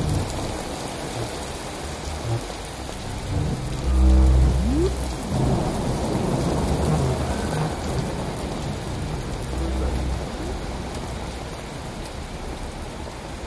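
Steady rain-like hiss with a deep low rumble about every five seconds, like thunder.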